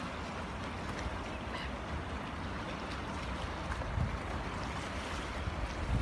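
Steady rush of moving water, with occasional low thuds.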